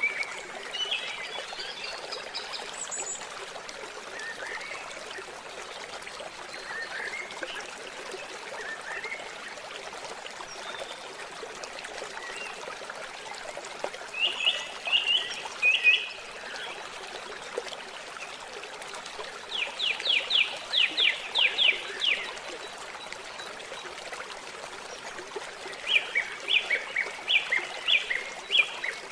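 Water trickling steadily, with an animal's rapid high trilled calls breaking in three times in the second half, each a quick run of repeated chirps.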